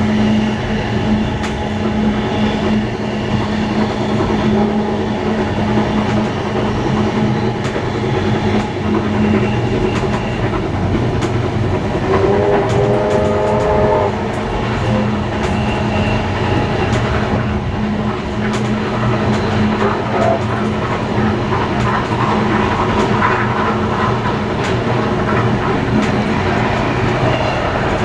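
Steam-hauled train running along the line, its wheels clacking over the rail joints over a steady hum. About twelve seconds in, a whistle sounds for about two seconds.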